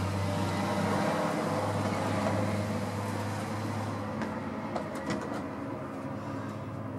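A car engine idling steadily, with a few light clicks about four to five seconds in.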